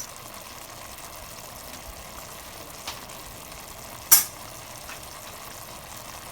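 Chicken adobo sizzling steadily in a pot as its sauce cooks down, with one sharp click a little past halfway and two fainter ones about a second either side.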